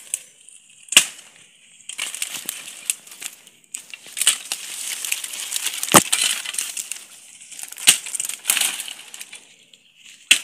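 Dry branches and leaves of the fallen cashew tree crackling and rustling as they are handled and broken up for firewood, with four sharp snaps or knocks, the loudest about six seconds in.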